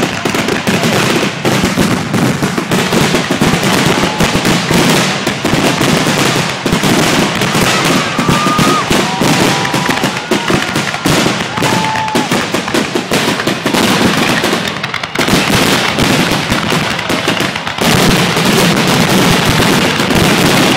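Fireworks finale barrage: dense, overlapping bangs and crackling with hardly a break, easing only briefly about two-thirds of the way through. A few short whistles sound about halfway in.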